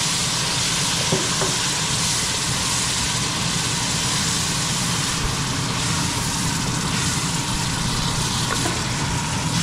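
Curry masala frying in hot oil in a pot, a steady sizzle. The paste is being cooked down with splashes of water so that it does not burn, before the meat is added.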